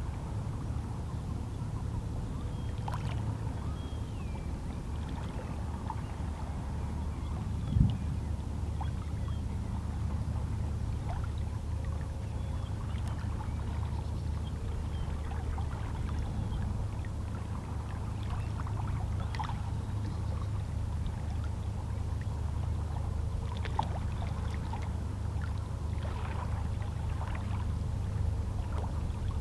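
Calm sea: small, lazy waves lapping and splashing softly against shoreline rocks over a steady low rumble of the water. There is one louder thump about eight seconds in.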